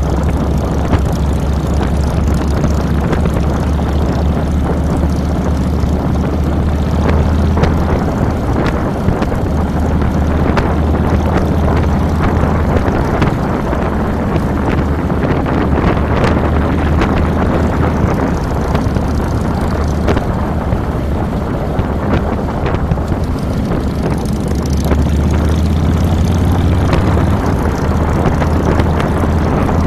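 The 2007 Harley-Davidson Fat Boy's Twin Cam 96 V-twin engine running as the motorcycle rides along, picked up by a handlebar-mounted camera. The low engine note eases off twice and picks up strongly again near the end.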